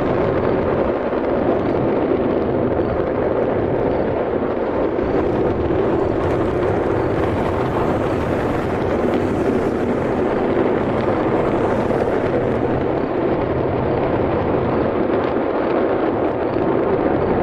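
Six Raptor rocket engines of SpaceX Starship Ship 41 firing together in a static fire test, a steady, unbroken rumble that holds the same level throughout.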